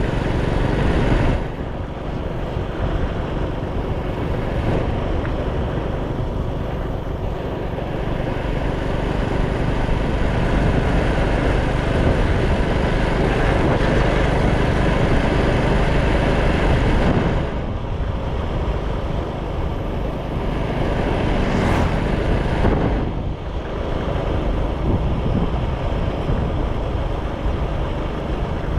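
Motorcycle running along a road, its engine mixed with wind rushing over the action-camera microphone; the level dips briefly a few times.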